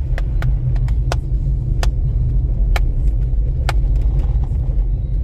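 Steady low rumble of a car driving on a snow-covered road, heard from inside the cabin, with a handful of sharp clicks at irregular intervals.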